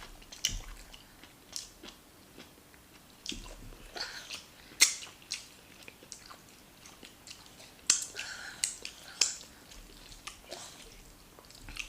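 Close-up eating sounds: food being chewed, with irregular sharp mouth clicks and smacks, the loudest about five seconds in and a cluster around eight to nine seconds.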